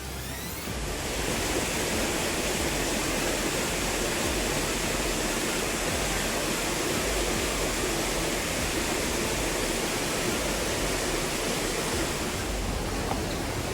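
Rushing water of a waterfall on a rocky mountain stream: a steady, dense rush that swells louder about a second in and then holds.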